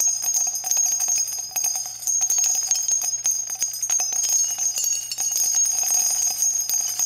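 Many small bells jingling continuously, a dense shimmer of tinkling strikes with a steady high ringing, over a faint low hum; it cuts off abruptly at the end.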